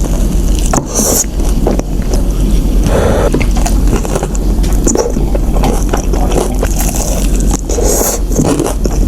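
Close-up eating sounds: crunching, chewing and scraping while eating seasoned fried chicken, irregular throughout, over a steady low hum.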